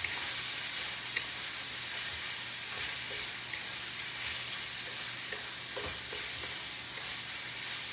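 Food sizzling steadily as it fries in oil in a pan, with a few faint light clicks.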